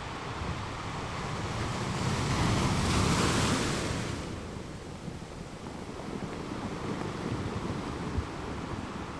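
Ocean waves breaking on a shore: one wave swells to a peak about three seconds in, then falls back into a lower, steady wash.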